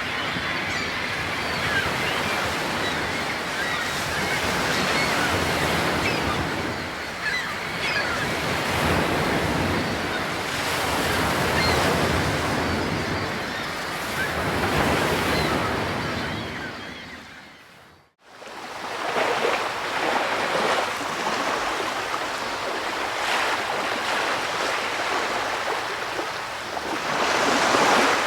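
Ocean waves washing onto a shore in slow, repeated swells, fading out briefly to silence and coming back partway through.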